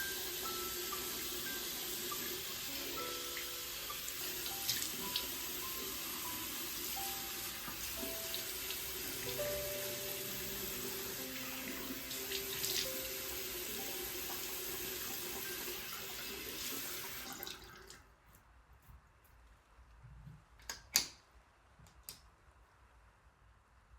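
Water from a tap running steadily into a sink, shut off about seventeen seconds in, followed by a few small clicks and a sharper click some three seconds later.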